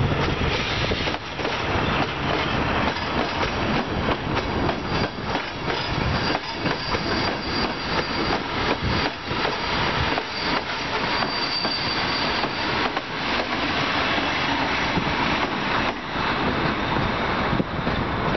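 Diesel-hauled passenger train passing close by: the locomotive goes past, then the coaches roll by with their wheels clattering over the rail joints. A thin high wheel squeal rises twice, a few seconds in and again about two thirds through.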